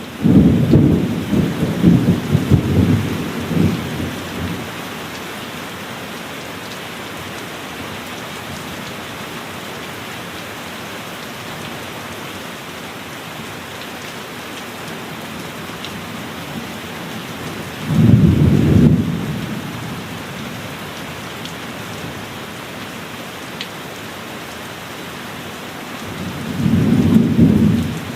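Heavy rain falling steadily, with thunder rumbling three times. The first is a rolling peal with several swells lasting about four seconds at the start. The second comes about two-thirds of the way in, and a shorter rumble comes near the end.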